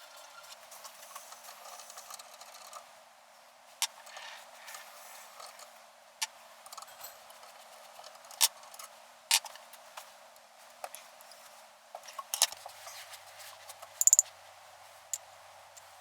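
Tools and small metal parts being handled during a motorcycle brake rebuild: scattered sharp clicks and light clinks, with a quick run of several clicks near the end.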